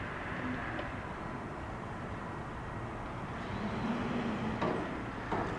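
Steady rumble of a train approaching from a distance on an electrified line, with two short clicks near the end.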